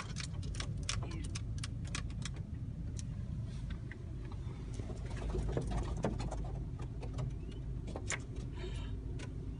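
A car running with a steady low rumble amid a large flock of birds, with many short sharp bird sounds, thickest in the first couple of seconds and scattered after.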